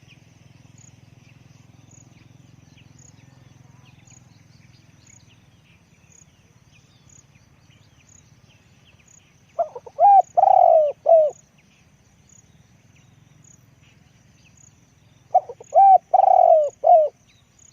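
Spotted dove cooing: two calls about six seconds apart, each a short phrase of about four coos with a longer coo in the middle.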